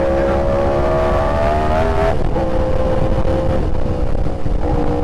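Yamaha R1's inline-four engine pulling under throttle, its pitch rising for about two seconds and then dropping sharply at an upshift before holding steady, with wind rushing past.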